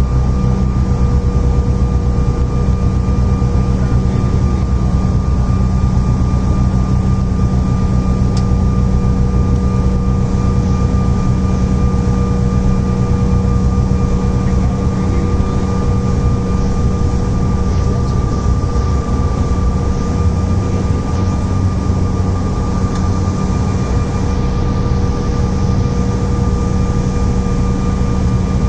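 Inside the cabin of a CRJ-900 airliner, its rear-mounted GE CF34 turbofan engines run with a steady drone: a heavy low rumble under a few fixed steady tones, holding even throughout.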